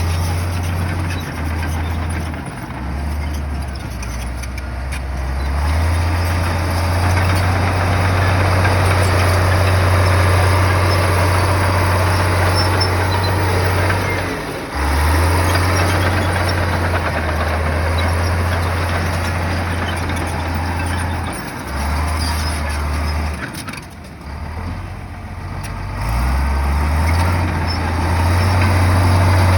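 Heavy bulldozer's diesel engine working under load, its low note rising and falling in steps, with rough mechanical noise from the machine. The sound drops briefly about halfway through and again near the end before coming back.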